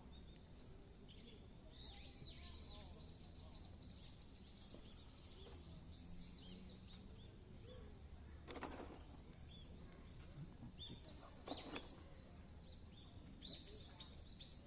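Faint birdsong: small birds chirping and twittering again and again over a low background hum, with two brief louder noises about eight and a half and eleven and a half seconds in.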